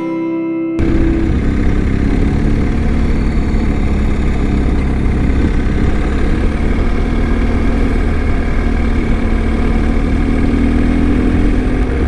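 A BMW R1250's boxer-twin engine running steadily under way, with road noise. It cuts in abruptly just under a second in, after a moment of guitar music.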